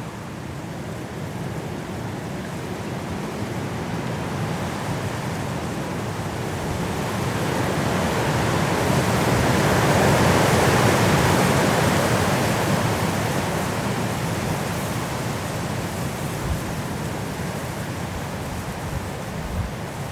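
High wind blowing through mountain forest trees in a snowstorm, a steady rushing that builds to a strong gust about halfway through and then eases off.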